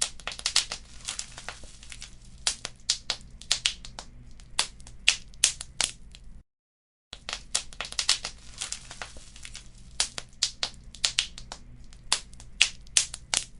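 Wood fire crackling, with many irregular sharp pops and snaps over a faint low rumble. The sound cuts out completely for under a second about six and a half seconds in, then picks up again.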